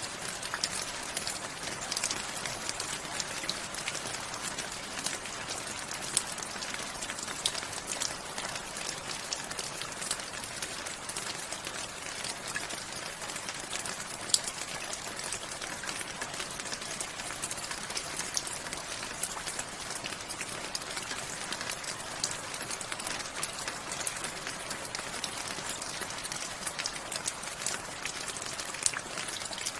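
Steady rain falling, an even hiss with many single drops ticking sharply through it.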